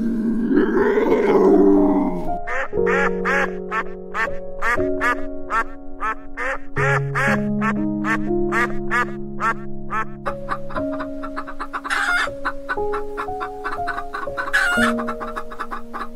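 Background music with sustained chords. A big cat's roar fades out in the first two seconds. Then comes a rapid run of short fowl calls, about four a second, with two louder calls near the end.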